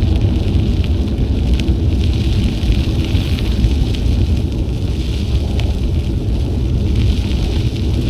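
Wind rumbling steadily on an action camera's microphone while riding a bicycle, with a fine crackle of scattered small clicks from the tyres rolling over the trail surface.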